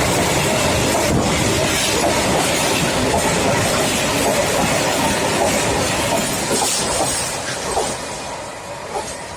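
Freight train running past on the rails, a loud steady rumble of wagons and wheels that dies down over the last couple of seconds.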